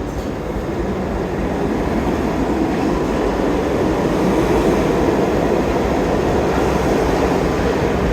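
R62A New York subway train running, a steady roar of wheels and motors that grows gradually louder.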